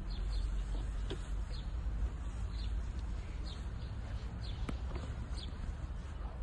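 Small birds chirping, short high calls repeating every half second or so, over a steady low rumble. A single sharp click about two-thirds of the way in.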